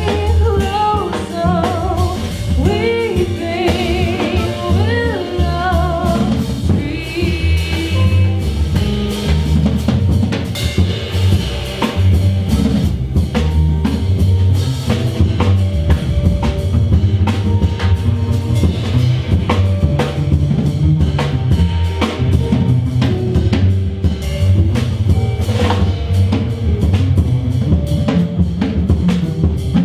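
A small jazz band playing, with a drum kit and a walking bass line. A voice sings a wavering melodic line over it for the first several seconds, then the band carries on instrumentally.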